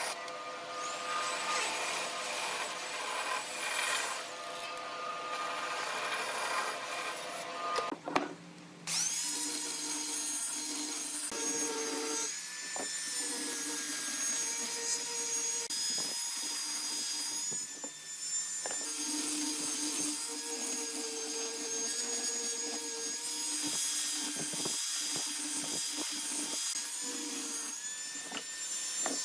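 Power tools working wood: a steady machine whine over scraping and rubbing on the wood, with a break about eight seconds in, after which the whine comes and goes.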